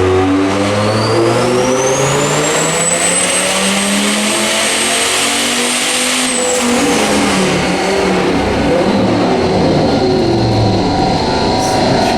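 Turbocharged 8.3-litre Viper V10 pickup making a full-throttle dyno pull: the engine revs climb with a rising turbo whine, peak about six seconds in, then fall away as it lifts off and coasts down.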